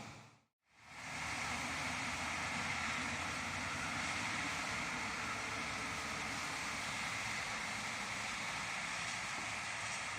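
Steady hiss of rain and wind during a thunderstorm, with no thunderclap. It drops out to silence for a moment about half a second in, then carries on evenly.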